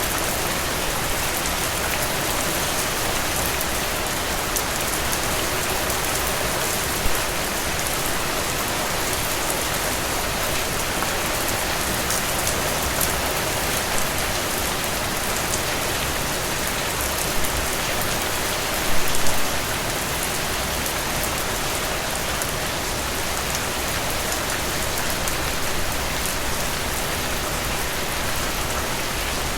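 Heavy rain falling steadily, a dense, even hiss. A few brief louder hits stand out, one about seven seconds in and a short cluster around nineteen seconds.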